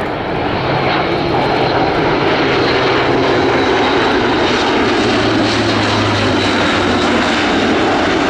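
Airbus A400M Atlas C1's four TP400 turboprop engines running as the aircraft flies in, a loud steady drone that builds over the first second. A low hum within it drops slightly in pitch about five seconds in.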